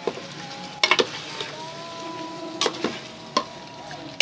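Chicken pieces frying and sizzling in a karahi with ghee, browned onion and ginger-garlic paste, stirred, with several sharp knocks of the spoon against the pan.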